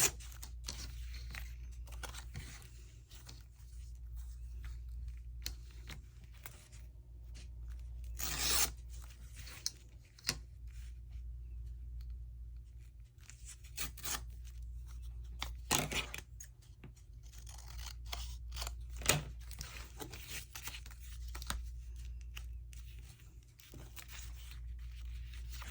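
Paper being handled and worked by hand, with crisp rustles and short scraping, cutting-like strokes; the loudest come about 8, 16 and 19 seconds in. A low steady hum runs underneath.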